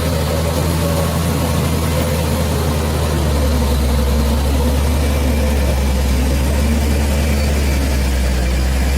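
Bulldozer's heavy diesel engine running steadily, with a deep low hum that grows a little louder and heavier about three seconds in.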